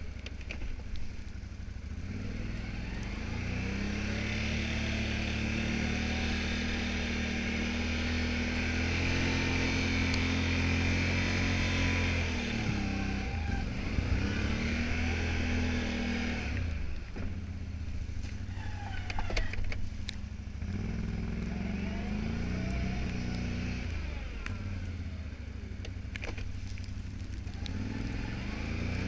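Can-Am Outlander 570 XT ATV engine running under load while plowing snow, its pitch rising and falling as it is throttled up and eased off twice. A steady hiss rides along with the first long pull, and a few sharp clicks come about two thirds of the way through.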